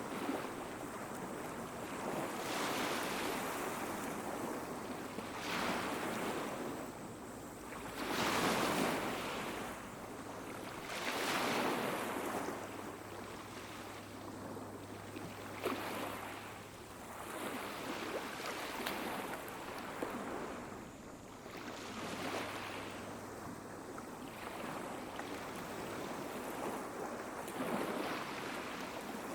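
Small sea waves breaking and washing up on a beach, one surge of surf every two to three seconds.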